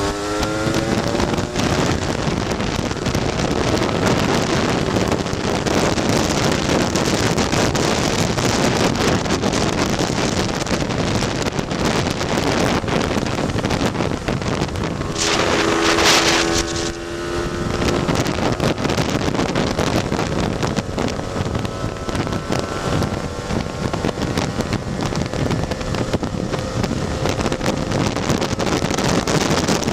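Heavy wind buffeting the microphone at road speed, with a tuned Lambretta scooter's two-stroke single-cylinder engine running faintly underneath. About halfway through there is a brief louder rush with a short steady tone.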